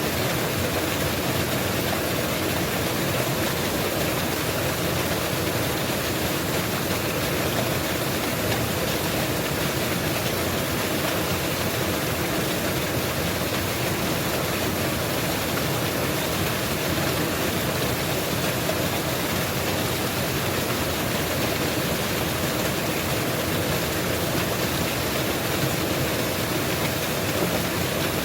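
Mountain waterfall rushing, a steady, even roar of falling water.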